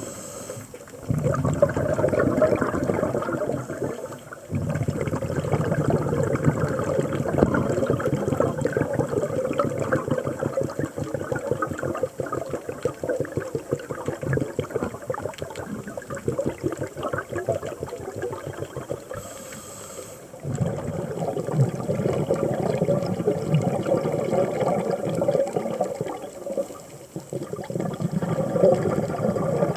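Scuba diver's regulator exhaust bubbles heard underwater: long stretches of rushing, crackling bubbles, broken by a few short pauses.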